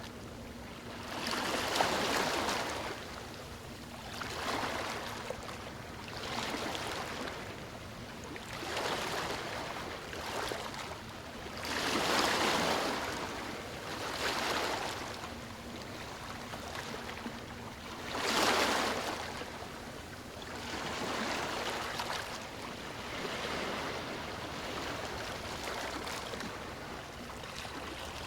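Sea waves breaking and washing on a shore, a surge of surf every two to three seconds, with bigger waves near the start, about twelve seconds in and about eighteen seconds in.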